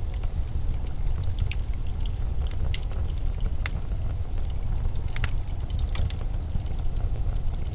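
Blizzard wind in a steady deep rumble, with scattered sharp little ticks and crackles over it.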